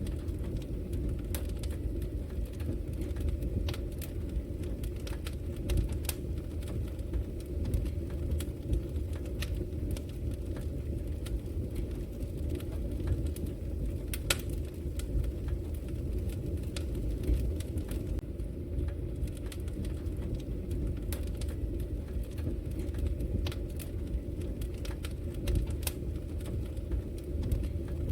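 Wood fire crackling: irregular sharp pops and snaps, one standing out about halfway through, over a steady low rumble.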